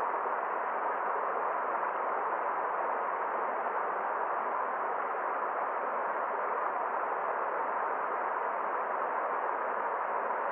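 Forest stream running: a steady, even rush of water with no distinct splashes or changes.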